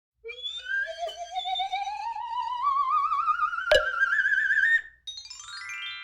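Intro sound effect or music: a wavering, theremin-like tone slides slowly upward in pitch for about four and a half seconds, with a sharp click partway through. Then comes a quick downward run of bright chime-like notes that rings out.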